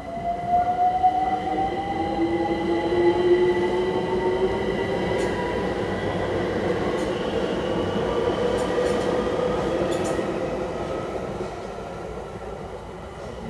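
London Overground Class 378 electric train passing over a level crossing: its traction motors give a whine that rises steadily in pitch, over the rumble of wheels on rail. The sound fades somewhat near the end as the train clears the crossing.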